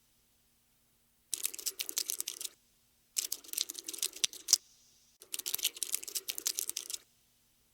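Cockroach scuttling sound effect: rapid clicking, in three runs of one to two seconds each with silent pauses between.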